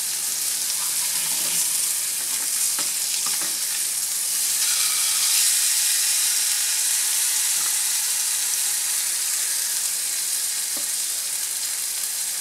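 Salmon fillets sizzling in hot olive oil in a skillet, a steady hiss throughout, with a few faint taps of a spatula against the pan as the fillets are turned.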